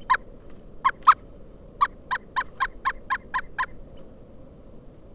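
Pileated woodpecker calling: a couple of loud single notes, then a quick even run of about eight notes at about four a second that stops a little past the middle.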